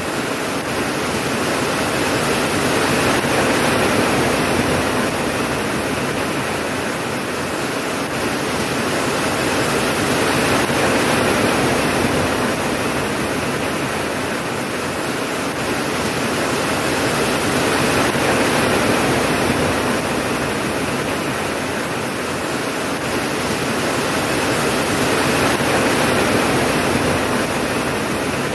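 Steady heavy rain falling, a dense even hiss that swells and eases slowly about every seven seconds.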